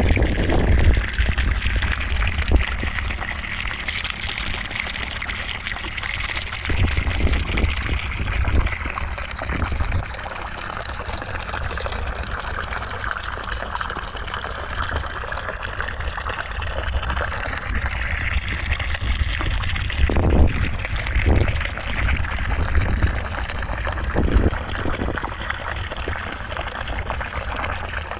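Steady rushing white noise, a constant hiss whose upper tone shifts slowly, with a few brief low rumbles underneath.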